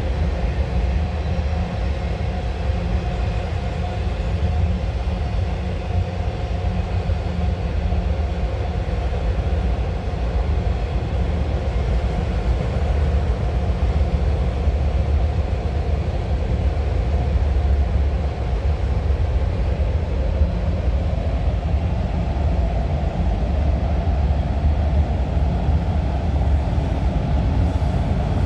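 Steady, unbroken low vehicle rumble, deep and even throughout, with a faint mid-pitched hum above it that grows a little stronger in the second half.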